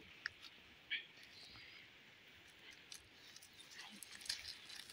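Quiet outdoor background: a faint high hiss with a couple of faint short chirps about a second in and a few light clicks or rustles.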